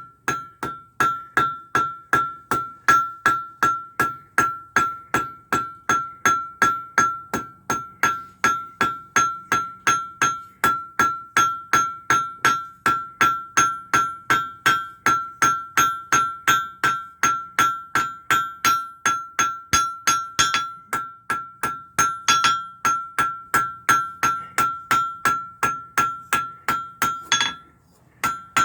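Blacksmith's hammer striking hot iron on an anvil in a steady rhythm, about three blows a second, each blow with a clear ringing tone from the anvil; the blows pause briefly near the end. The iron is being drawn out into the stem of a forged leaf.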